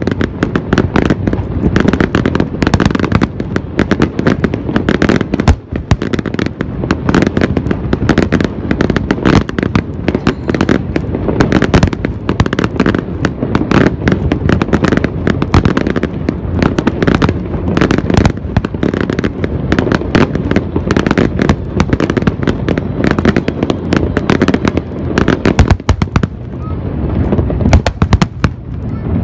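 Aerial fireworks display: a dense, continuous barrage of shell bursts, bangs and crackling over a heavy low rumble, with a brief lull about five seconds in.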